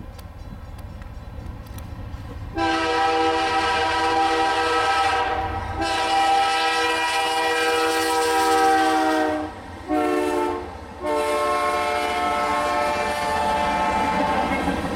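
Diesel freight locomotive's multi-tone air horn sounding four blasts, long, long, short and long, starting about two and a half seconds in: the grade-crossing signal. Under it runs the low rumble of the approaching CN potash train.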